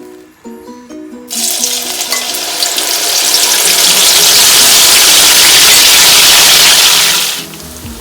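Marinated soya chunks deep-frying in hot coconut oil: a loud sizzle starts about a second in, builds, holds, and cuts off sharply near the end.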